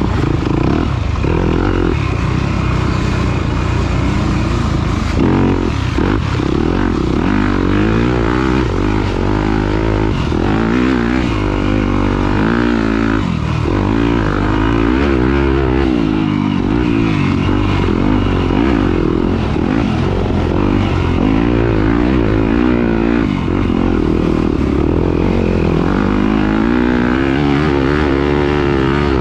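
Off-road racing motorcycle engine revving hard and easing off again and again, its pitch rising and falling continuously as the bike is ridden.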